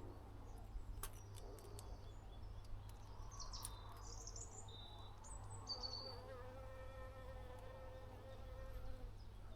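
A few sharp clicks and short high chirps from small birds at a feeder, then an insect buzzing steadily for about three seconds near the end.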